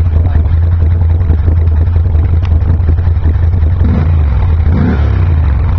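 Can-Am Renegade 800 HO ATV's Rotax V-twin running steadily through a custom exhaust of equal-length headers joined at an X-pipe and split into twin Suzuki GSX-R motorcycle mufflers.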